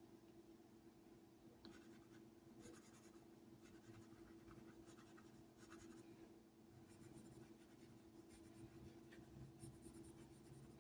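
Faint scratching of a pen drawing, in two runs of quick strokes separated by a short pause, over a steady low hum.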